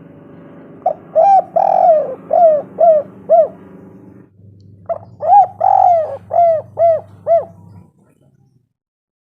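Spotted dove cooing: two calling phrases, each a quick run of about six cooing notes, the second beginning about five seconds in. A low steady hum sits under the calls and stops near the end.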